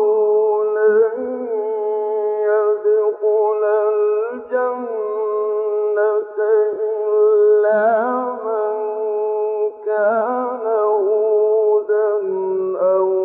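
Quran recitation: a single voice chanting in a slow, melodic style, holding long notes and ornamenting them with wavering turns, with brief pauses for breath.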